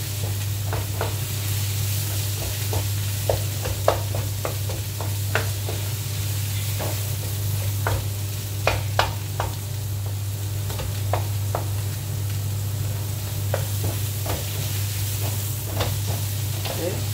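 Chicken pieces sizzling in a non-stick wok while a wooden spatula stirs and scrapes them, with irregular knocks of the spatula against the pan. A steady low hum runs underneath.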